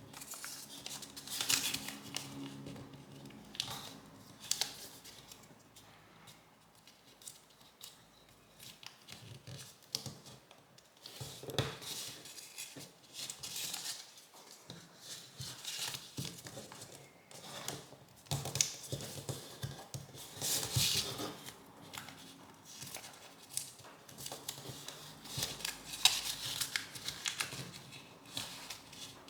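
A sheet of origami paper being folded and creased by hand: irregular rustling and crinkling, with sharper scrapes each time a fold is pressed flat.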